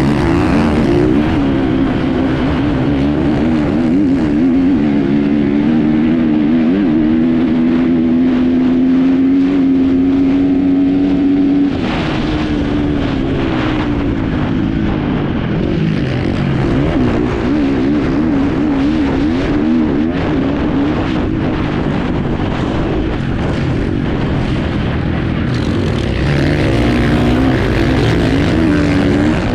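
Enduro motorcycle engine heard from an on-board camera, its revs rising and falling as it is ridden. It holds a steady pitch for a few seconds, then eases off about twelve seconds in and picks up again, over steady wind and road noise.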